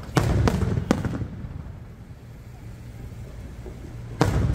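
Aerial firework shells bursting: three bangs in quick succession just after the start, then another pair about four seconds in, each followed by a low, rolling rumble.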